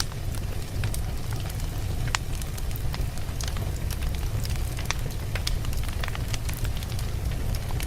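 Wood logs burning in a fireplace: a steady low rumble of the flames with frequent sharp crackles and pops, one louder pop about two seconds in.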